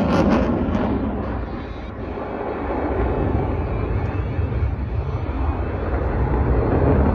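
Jet roar from an F/A-18 Super Hornet's two afterburning turbofans making a low flyby: a loud, rushing noise that eases about two seconds in, then builds again with a deep rumble.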